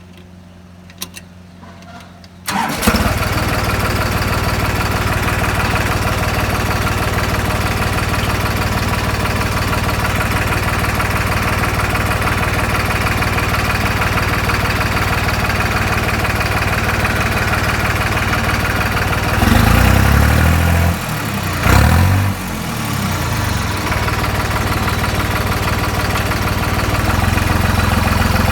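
New Holland 3630 tractor's three-cylinder diesel engine starting after a couple of seconds of quiet, catching at once and settling into a steady idle. About two-thirds of the way through it is revved up and down briefly, twice, then drops back to idle.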